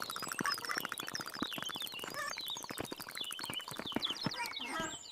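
Small animals scurrying off: quick pattering footsteps with many short, high chirps and squeaks over them.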